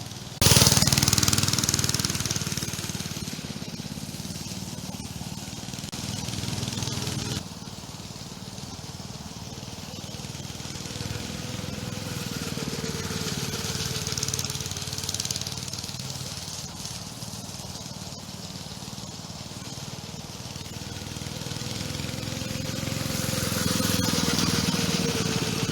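Small minibike engine running during a ride, its drone swelling and fading as the bike moves about, its pitch wavering with the throttle. The sound jumps abruptly about half a second in and changes again about seven seconds in.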